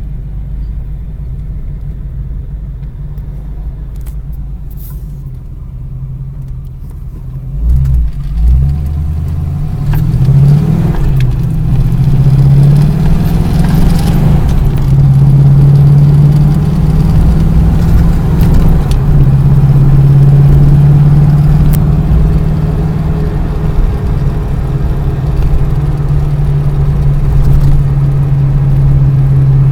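A vehicle engine runs with a low rumble, with a couple of low thumps about eight seconds in. It then revs up and settles into a steady, louder drone.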